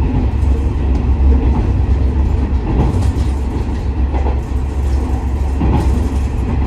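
Inside a JR West KiHa 47 series diesel railcar under way: a steady low drone of the diesel engine and the wheels running on the rails, with a few faint knocks.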